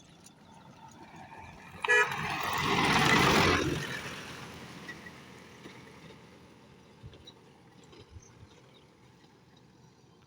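A vehicle horn gives one short toot, then a passing vehicle's noise swells and fades away over a few seconds against low road noise.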